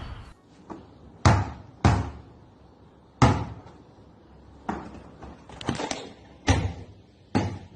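A series of sharp knocks or bangs, about eight of them at irregular intervals, each dying away quickly; the loudest fall about a second in, near two seconds, about three seconds in, and near six and a half seconds.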